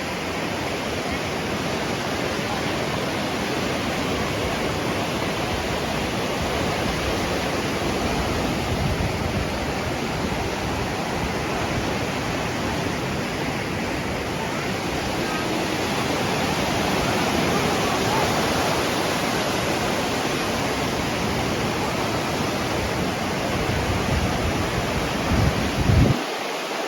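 Steady rushing noise of small waves washing onto the shore, mixed with wind. A short loud bump near the end.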